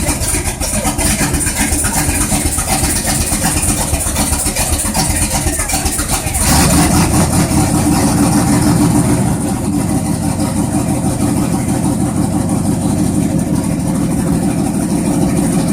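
Bigfoot #5 monster truck's engine running: about six seconds in its note jumps suddenly and loud, stays up for a few seconds, then eases to a steady idle.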